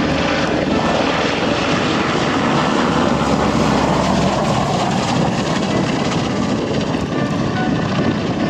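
Aircraft flying close overhead, a loud steady rush of engine and propeller noise.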